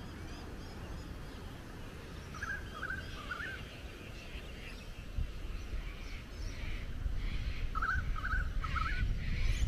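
A bird calling twice, a short warbling phrase each time, about five seconds apart, with fainter chirps around it. Beneath it a low rumble grows louder near the end.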